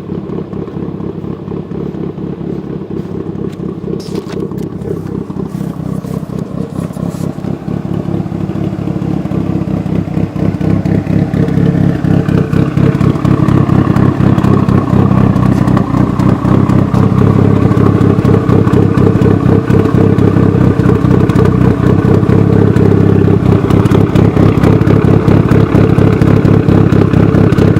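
Mitsubishi Lancer Evolution VIII's turbocharged four-cylinder running through a 3-inch RSR ExMag catback exhaust, with Kelford 272 cams fitted. The note is steady and deep and grows clearly louder over several seconds about a third of the way in, then holds loud.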